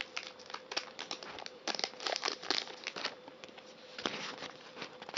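Foil Pokémon card booster pack wrapper being crinkled and torn open, a string of short crackles that come thickest about two seconds in and again about four seconds in.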